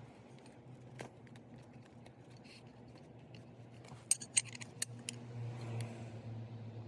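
Light metallic clicks and clinks of tools and parts being handled, with a quick cluster of sharp clinks about four seconds in, over a steady low hum.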